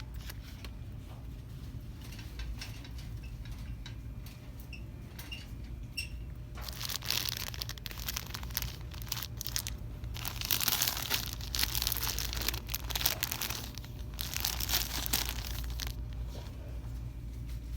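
Crinkly plastic being handled and crumpled, a dense crackling that starts about a third of the way in, swells, and dies away near the end, over a steady low hum.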